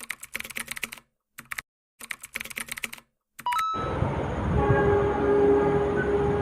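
Runs of computer-keyboard typing clicks with dead silence between them. About three and a half seconds in comes a brief gliding tone, and then the dense, steady running noise of the Whoosh high-speed train starts, with a few steady tones held over it.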